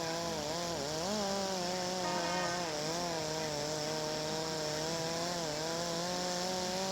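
Electric angle grinder used as a rotary buffer, running at low speed while polishing gelcoat; its steady motor hum wavers slightly in pitch as the pad is worked against the surface.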